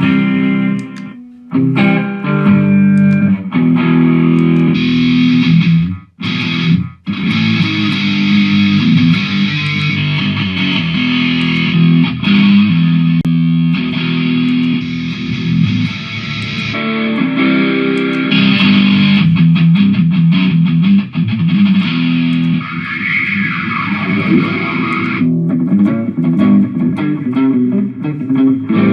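Jackson electric guitar played through a Mooer GE150 multi-effects unit: distorted chords and riffs with two brief stops in the first seven seconds, and a falling pitch sweep a little over twenty seconds in.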